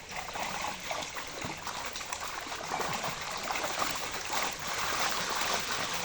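Pond water splashing and trickling, a steady run of small irregular splashes.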